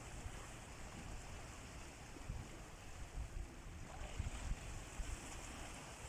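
Sea waves washing on the shore, a steady hiss. Irregular low rumbling gusts come in the middle, like wind buffeting the microphone.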